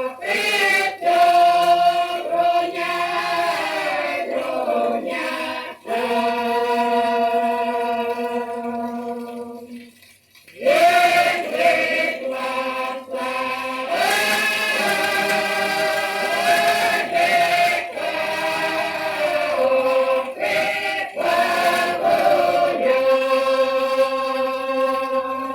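Mixed choir singing a Russian folk song in sustained chords, played from a 78 rpm shellac record. The singing breaks off briefly about ten seconds in, then comes back and holds long chords, easing off near the end.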